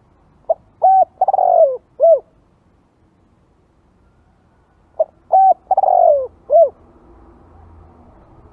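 Spotted dove cooing: two matching song phrases about four and a half seconds apart, each a couple of short coos followed by a longer coo that falls in pitch and a final short coo.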